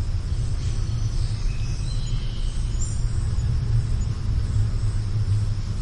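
A steady low rumble, with a few faint bird chirps high above it in the middle.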